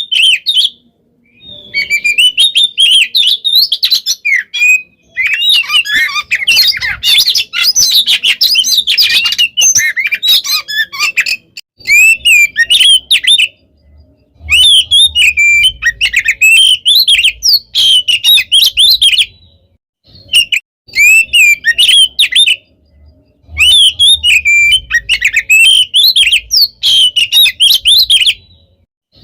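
Oriental magpie-robin (kacer) singing a loud, packed song of varied whistles, rapid trills and mimicked calls of other birds. It comes in runs of several seconds broken by short pauses.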